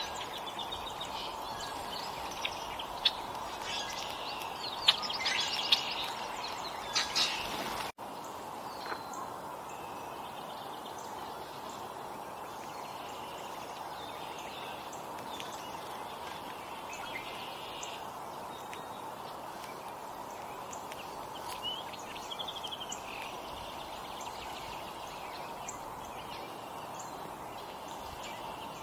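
Small songbirds chirping and calling at a backyard feeder over a steady hiss of outdoor background noise. The calls come thick for the first eight seconds; after a sudden break they are sparser and fainter.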